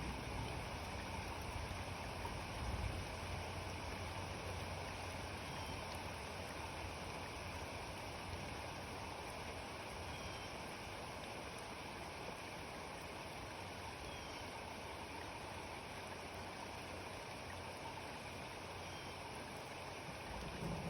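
Steady rain falling, an even hiss. A low rumble of distant thunder fades out in the first few seconds.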